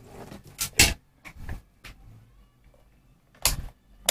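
A few short clicks and knocks from a multimeter and its test probes being handled, with the loudest one just under a second in.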